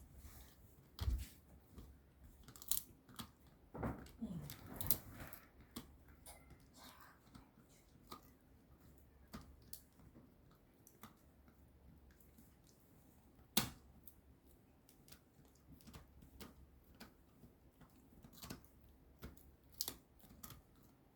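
A puppy chewing and gnawing on a dog chew: irregular sharp cracks and clicks of teeth on the hard chew, one louder crack about two-thirds of the way through.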